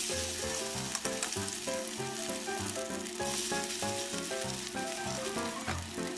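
Okoy batter of tiny dulong fish sizzling as it is spooned into hot cooking oil in a frying pan. The sizzle jumps up right at the start as the batter hits the oil, and again a little past the middle as another ladleful goes in.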